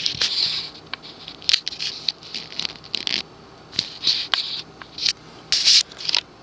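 Handling noise: a scattered run of short clicks, scrapes and rustles, with no steady motor sound.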